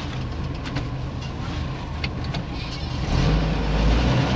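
Car engine running, heard from inside the cabin as a steady low rumble that grows louder about three seconds in.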